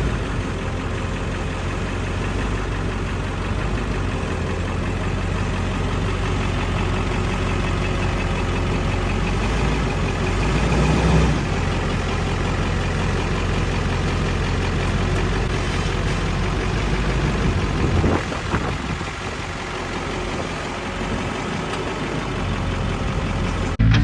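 A heavy engine running steadily, with a brief swell about eleven seconds in.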